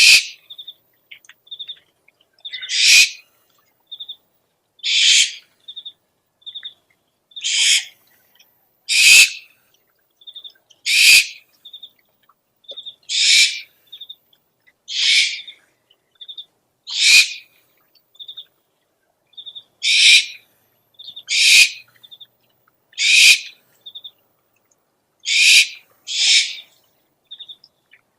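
Owl lure recording: harsh, raspy owl screeches about half a second long, repeated roughly every two seconds, with short high piping notes in pairs between them.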